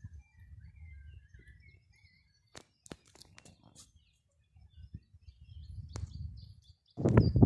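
Small birds chirping in short, pitch-bending notes, with a few sharp clicks, over a low rumble that swells loud near the end.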